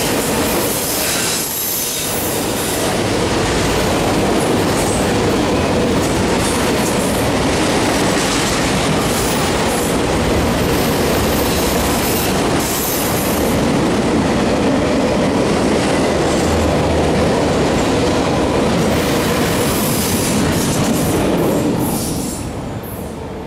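Autorack freight cars rolling past close by: a steady, loud rumble of steel wheels on the rails. It drops away near the end as the last car clears.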